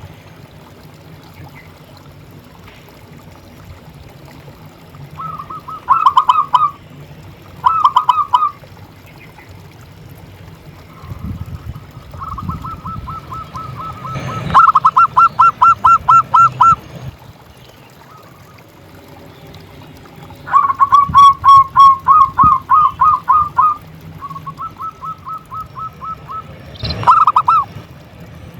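Zebra dove (perkutut) singing: about six phrases of rapid, pulsing coos at one steady pitch, short ones early on and longer runs of three to four seconds near the middle and later, over a steady low hum.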